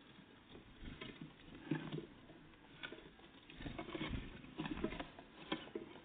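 Great tits and blue tits feeding at a bird feeder: irregular pecking taps and scrabbling of feet, with a few heavier knocks in the second half.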